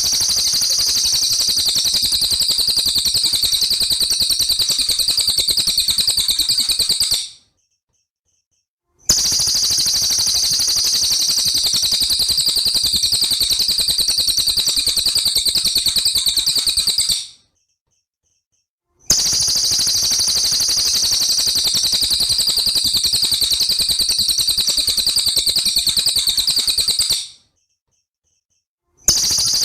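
Looped recording of a songbird's rapid, rattling trill of repeated notes. It plays in blocks of about eight seconds, each fading out into a two-second silence before the next begins. There are three such blocks, and a fourth starts near the end.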